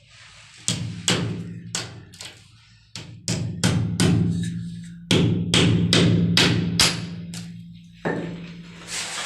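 A fast, irregular run of sharp knocks, roughly two a second, over a low steady hum, followed near the end by a short burst of hissing or scraping noise.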